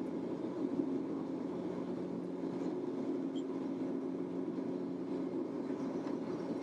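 Steady drone of an airliner's engines and airflow heard inside the passenger cabin, a constant low hum with no break.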